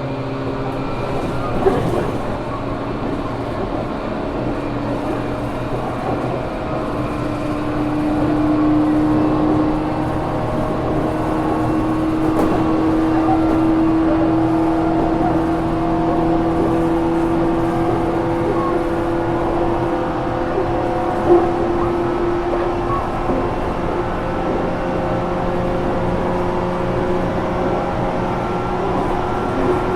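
Running noise inside a JR Kyushu 415 series 1500 electric motor car at speed: a steady hum and whine from the traction motors and gearing, with several held tones over wheel-on-rail rumble. One tone comes in about seven seconds in, climbs slowly and fades later, and there is a single sharp knock about two-thirds of the way through. This car is known for an unusual running noise.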